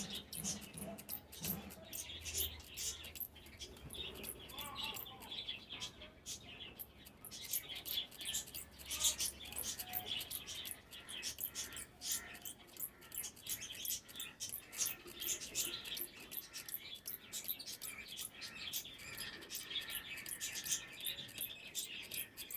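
Java sparrows chirping over quick, continuous splashing and pattering as they bathe in water.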